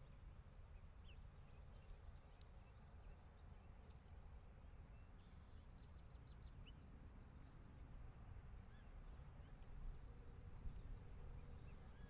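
Near-silent outdoor ambience: a low steady rumble with a few faint bird chirps, including a quick run of about five high notes a little past the middle.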